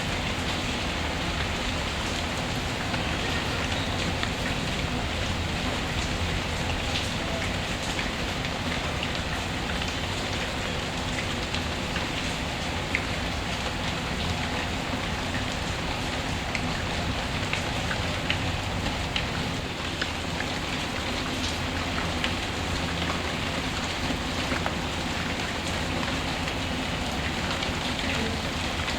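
Steady rain: a constant hiss of rainfall with scattered small ticks of drops, unchanging throughout.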